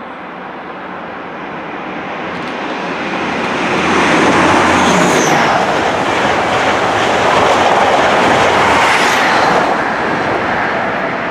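East Midlands Trains diesel High Speed Train passing through at speed on the main line. The rush of wheels on the rails builds as it approaches, stays loud for about five seconds while the coaches go by, and fades near the end.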